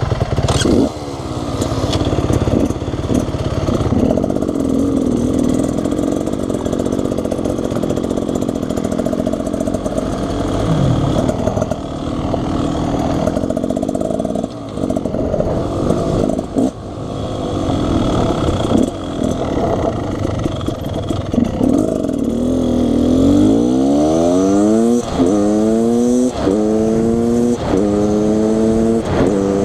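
Beta Xtrainer 300 two-stroke dirt bike engine running on a trail ride, the throttle opening and closing over rough ground. Near the end it accelerates hard through the gears: several quick rising pulls in a row, each dropping back as it shifts up.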